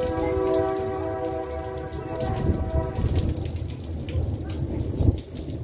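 Rain falling, with wind buffeting the microphone. A steady pitched tone with several overtones sounds for about the first three seconds, then stops.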